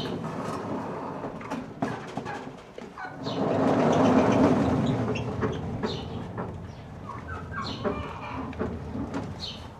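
Chickens clucking, with a rushing noise that swells about three to five seconds in.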